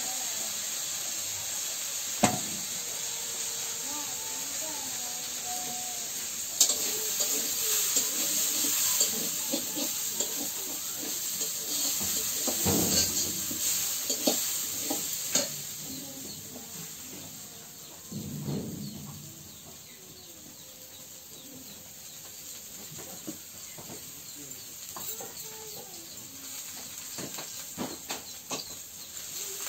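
Chopped aromatics frying in oil in a steel kadai over a wood fire: a steady sizzle that grows louder a few seconds in and dies down past the middle. Scattered knocks and scrapes of a metal spatula stirring the pan.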